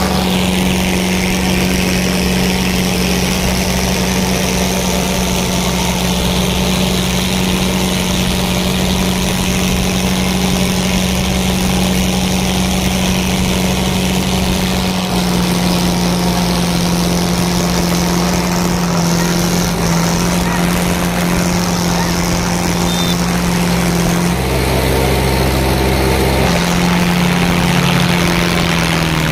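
Tractor diesel engines running hard and steadily, their pitch shifting slightly a few times as they are worked.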